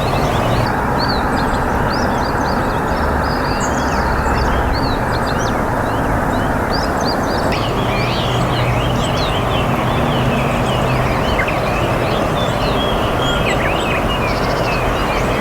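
A steady, loud rushing noise with many short, high bird chirps scattered throughout.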